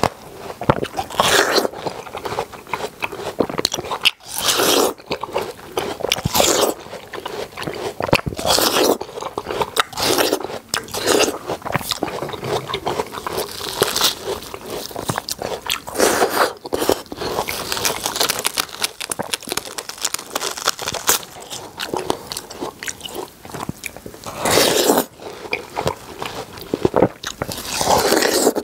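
Watermelon being bitten and chewed right at the microphone: repeated crunching bites, one every second or few, with chewing in between.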